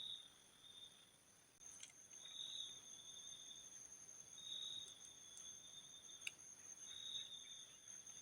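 Faint, steady high-pitched chirring of insects, with the lowest of its tones swelling about every two seconds. A few light clicks sound in between.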